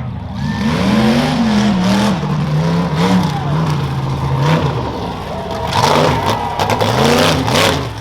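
Rough-truck engine revving up and down again and again as the truck is driven hard over a rough course, with several sharp bangs and clatter near the end.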